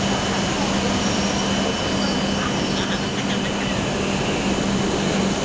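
E7/W7 series Shinkansen train making a steady rushing noise with an even low hum.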